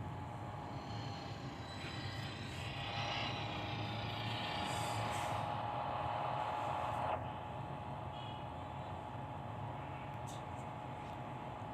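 Truck running on the road: a steady engine hum with road noise that grows louder for a few seconds, then drops suddenly about seven seconds in.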